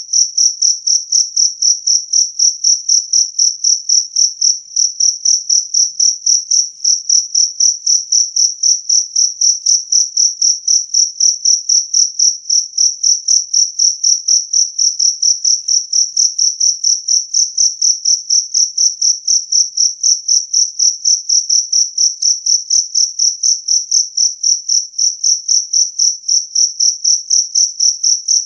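Jangkrik kalung cricket chirping loudly and steadily: a clear, high-pitched chirp repeated evenly, about four to five times a second.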